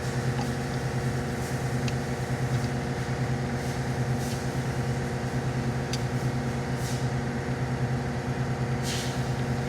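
A steady low mechanical hum, like an engine idling, with a few faint clicks.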